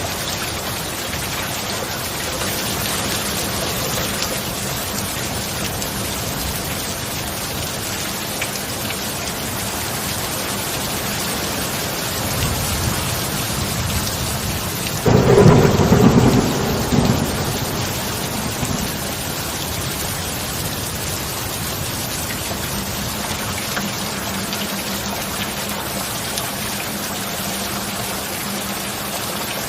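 Steady heavy rain with a clap of thunder about halfway through: a sudden crack that rolls and dies away over a few seconds. A faint steady low hum runs under the rain.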